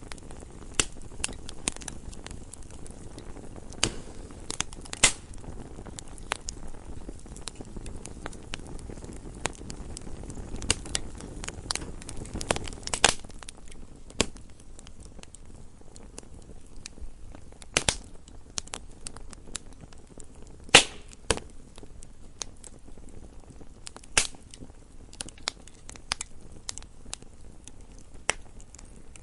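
Wood fire burning in a fireplace: irregular crackles and sharp pops over a low steady hiss of the flames. The loudest pops come about 5, 13, 18, 21 and 24 seconds in.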